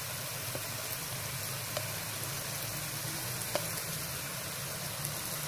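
Chicken cubes and julienned carrot sizzling steadily in hot oil in a pan, with a few light clicks of a spatula stirring.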